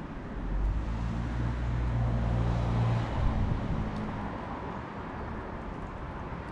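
An engine hum, like a motor vehicle nearby, comes in about half a second in and fades out about three seconds in, over a steady rushing outdoor background.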